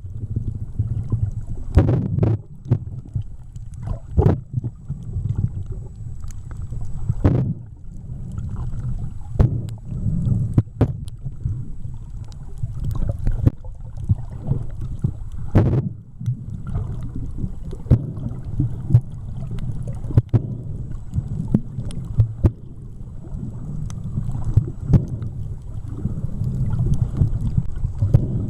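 Muffled underwater sound picked up by a camera held under water: a steady low rumble of water with many scattered clicks and pops.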